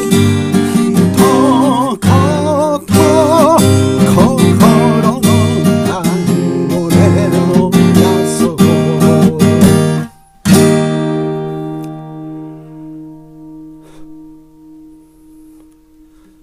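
Acoustic guitar strummed in a steady rhythm with a voice singing over it, breaking off about ten seconds in. A final chord is then strummed once and left to ring out, slowly fading away.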